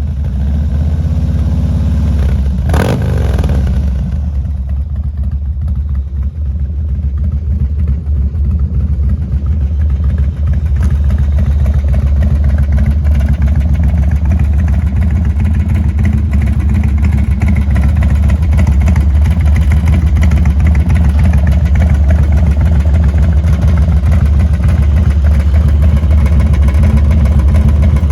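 Harley-Davidson FXDX Dyna's 1450 cc Twin Cam 88 V-twin running through a Kerker 2-into-1 exhaust, mostly steady at idle. There is one brief sharp sound about three seconds in, and the engine grows a little louder from about ten seconds in.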